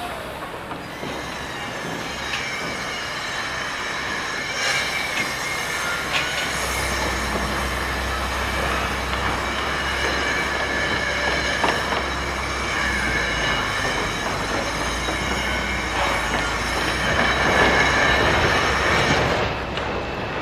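A heavy vehicle moving, with a steady high metal-on-metal squeal in several tones over a rumbling bed. A deep low rumble joins a few seconds in, and the sound swells louder near the end.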